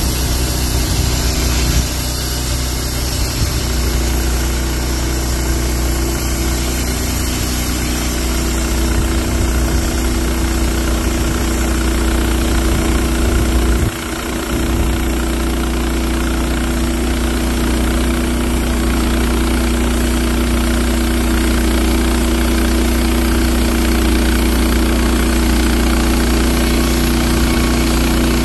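An engine running steadily at a constant speed, with a brief dip in level about fourteen seconds in.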